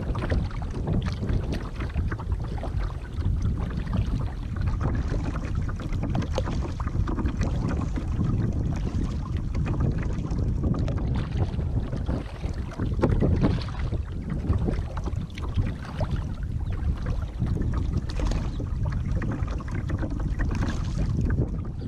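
Kayak being paddled along, with irregular splashy strokes over a steady rumble of wind on the GoPro's microphone.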